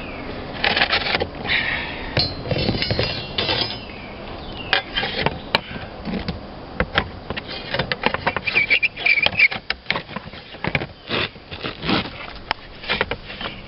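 Hand tools working at a stuck roofing nail under a slate: rapid, irregular knocks and clinks of metal on slate, with short high squeals about two to three seconds in and again near nine seconds.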